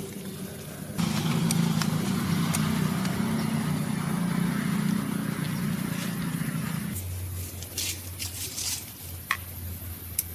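An engine running: louder for about six seconds starting a second in, then dropping to a lower steady hum with a few light clicks.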